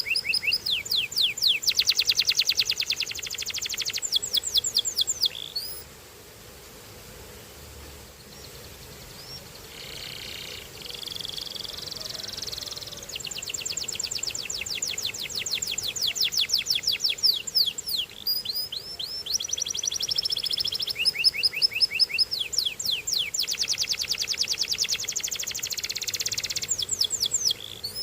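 Canary singing in fast, high-pitched trills of rapidly repeated notes. The song drops to a softer, quieter passage for several seconds in the first half, then the loud rolling trills resume.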